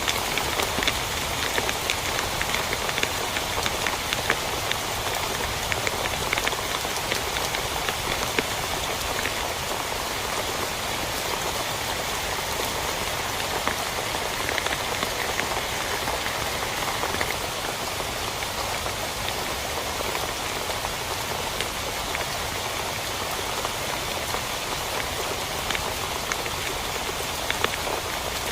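Steady heavy rain drumming on a tent, a dense wash of drops with many sharper individual drop hits.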